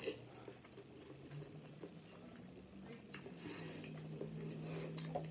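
A person chewing a mouthful of seafood boil, with scattered wet lip smacks and mouth clicks. A low, steady hum comes in about a second and a half in and holds to the end.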